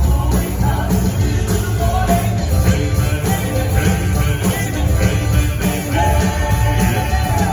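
Southern gospel male quartet singing live over a full band, with strong bass and drums.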